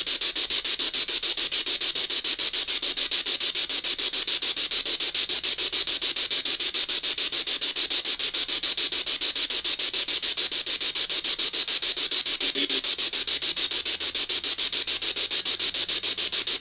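Spirit box sweeping through radio stations: a steady hiss of static, chopped rapidly and evenly as it scans.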